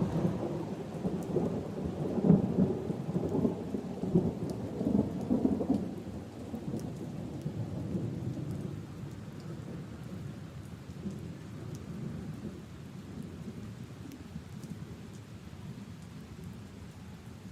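Steady rain falling on leaves and puddles, with scattered drop ticks, under a low roll of thunder that is loudest at the start and dies away over the first six seconds or so.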